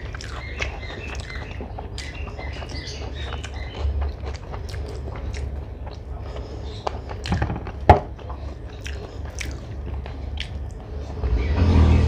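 Close-miked chewing and biting on chicken curry and rice, full of small clicks, with fingers mixing rice and curry on a steel plate. One sharp click stands out about eight seconds in.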